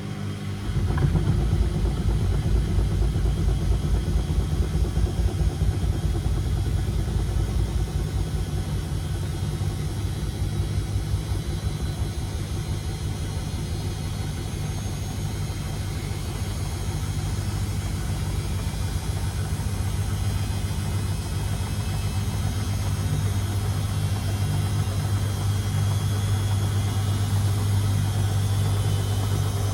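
Beko WMD 46160 washing machine's drum motor starting up under a second in and then running steadily with a low hum and fast low pulsing.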